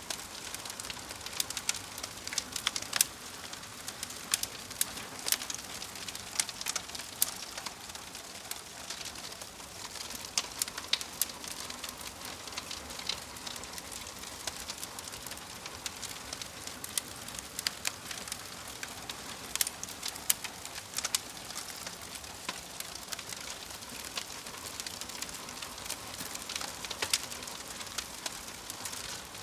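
Wood fire of burning logs in a fireplace crackling, with a steady hiss and many sharp, irregular pops and snaps.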